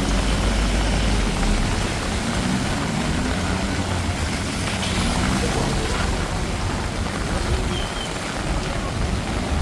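Heavy rain falling steadily, with a vehicle engine's low rumble underneath, heaviest in the first second.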